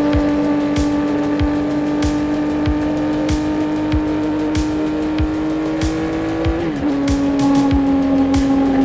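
2025 CFMoto 675SS's inline three-cylinder engine, through an aftermarket exhaust, running at steady high revs with its note slowly climbing. About seven seconds in, the pitch drops sharply with an upshift, then holds lower.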